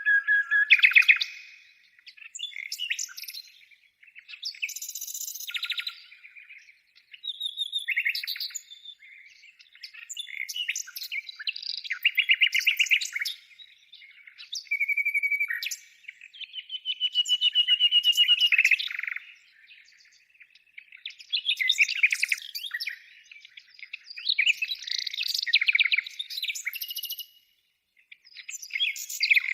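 Birds singing and calling: a run of separate phrases of chirps, whistles and rapid trills, with short pauses between them.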